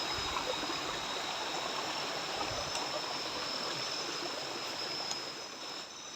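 Steady rush of flowing stream water, with insects buzzing on two steady high pitches over it. The water sound drops a little near the end.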